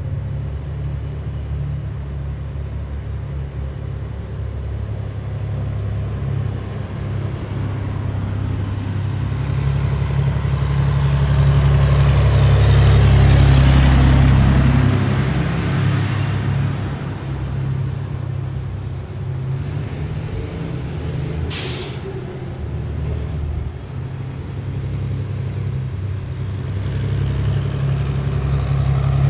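Heavy military vehicles rolling past in a column, their diesel engines rumbling with a high whine on top. The sound swells to its loudest about halfway through as one passes close. About 21 seconds in there is a short, sharp hiss of an air brake.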